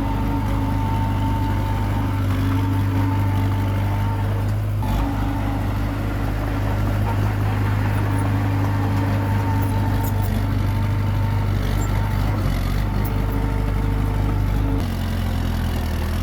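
Komatsu D21P crawler bulldozer's diesel engine running steadily under load, its note changing about five seconds in and again near the end, with a few faint clicks.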